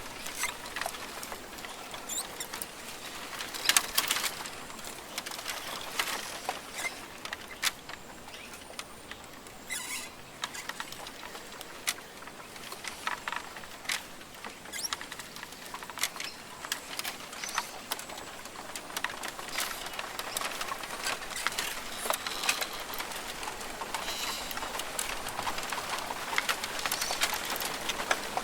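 Rainforest ambience: a steady hiss with many irregular small clicks and patters, loudest about 4 s and 10 s in, and an occasional faint bird call.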